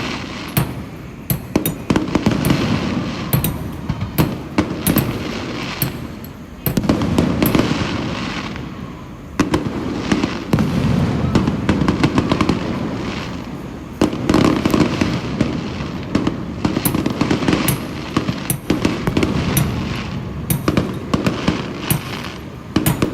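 Fireworks going off: rapid volleys of crackling bangs over a low rumble, swelling in waves every few seconds.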